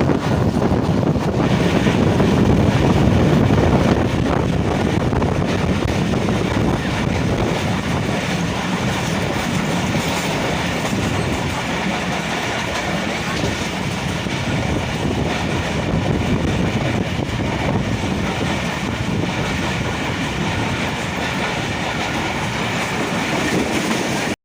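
Express passenger train running at speed: a steady rumble with clatter of wheels over the track, a little louder in the first few seconds.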